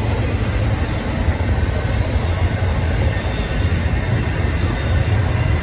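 Union Pacific freight train rolling past close by: a steady, loud rumble of wheels on rail.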